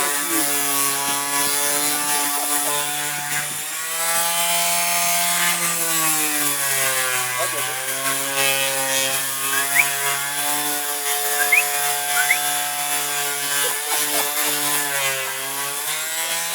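Electric power tool running steadily with a loud motor hum, its pitch sagging briefly about four seconds and seven seconds in as it bears on the work.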